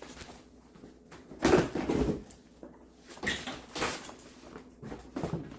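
Plastic car bumper cover and trim being pulled loose and handled: three bouts of clunking and rattling, the loudest about a second and a half in.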